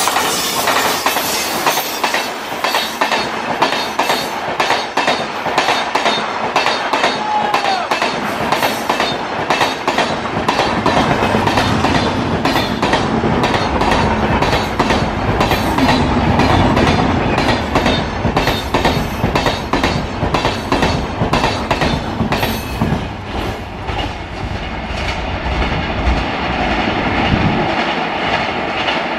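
Passenger train coaches running past at speed, their wheels clattering over the rail joints in a rapid, steady rhythm.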